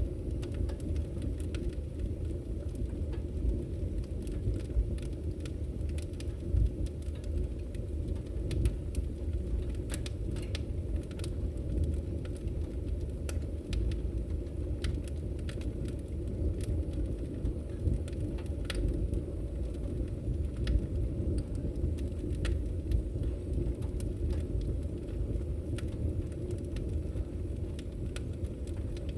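Campfire burning: a steady low rumble of flame with irregular sharp crackles and pops from the burning wood.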